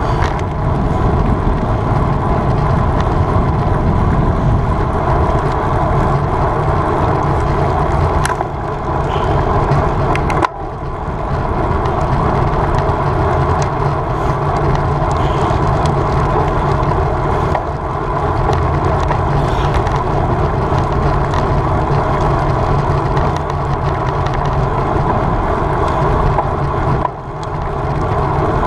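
Steady wind rush and road noise on a camera carried on a road bike being ridden at race speed; the rush dips briefly twice.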